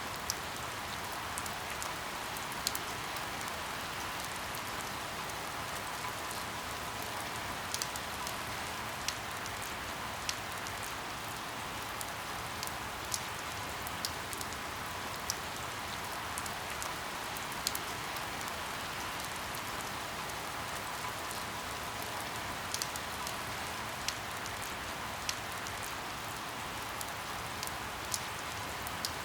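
Steady rain falling on a window, an even hiss with frequent sharp ticks of single drops hitting the glass.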